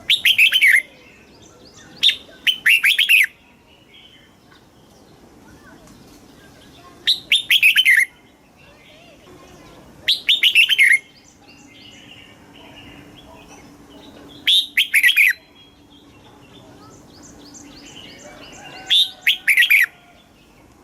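Red-whiskered bulbul singing: six short, loud phrases of quick falling notes, one every few seconds, with faint chirps from other birds in the gaps.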